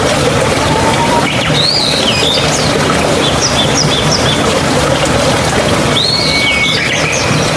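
A steady rush of babbling water from a mountain stream. Birds call over it: a chirping phrase about a second and a half in, a few short high notes around the middle, and another call near the end.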